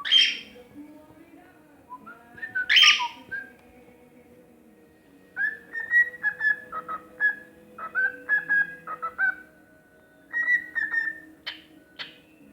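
Cockatiel singing: two loud harsh calls in the first three seconds, then runs of short, clear whistled notes broken by a brief pause, and two sharp chirps near the end.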